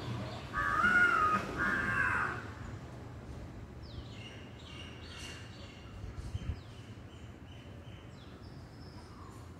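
Bird calls: a few loud calls about half a second to two seconds in, followed by fainter short chirps from smaller birds.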